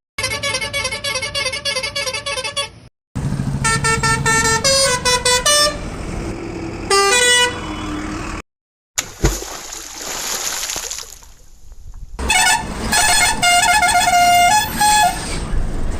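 A series of vehicle horn honks of changing pitch, some pulsing quickly, in several bursts broken by short silences, with a stretch of rushing noise around the middle.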